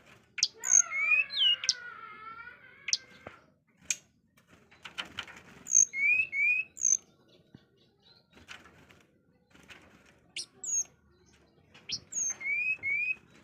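A songbird sold as burung suling singing clear whistled phrases, each a sharp high note followed by two short rising whistles, repeated three times with pauses between. About a second in, a lower drawn-out call slides down in pitch beneath the first phrase, and short clicks come between the phrases.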